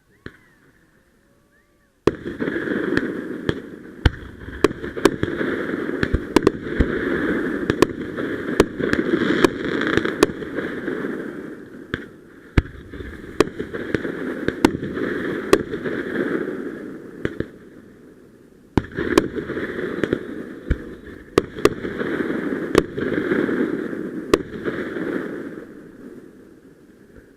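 Fireworks going off: a rapid, irregular string of sharp bangs and pops over a continuous hissing, crackling roar. It starts suddenly about two seconds in, breaks off briefly about two-thirds of the way through, then resumes and fades near the end.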